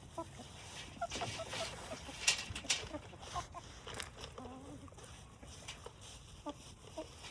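Hens clucking in short, scattered notes while feeding, with a few brief sharp clicks among them.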